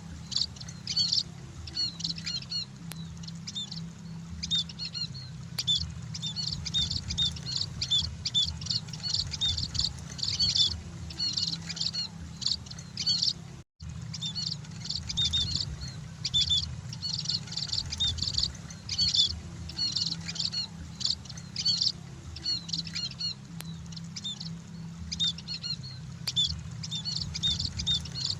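Emprit (munia) birds chirping continuously, many short high chirps crowding together, over a steady low hum. The sound cuts out for a split second about halfway through.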